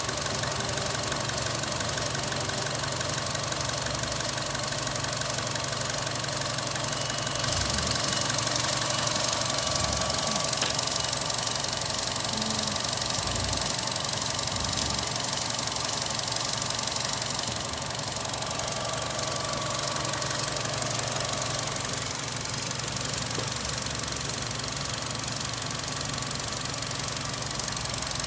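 Holden Cruze 1.4-litre Ecotec four-cylinder petrol engine idling steadily, heard close up under the open bonnet.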